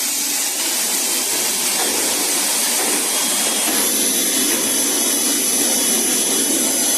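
Steady loud rush of air from an air-driven machine, with thin high whistling tones joining about halfway through.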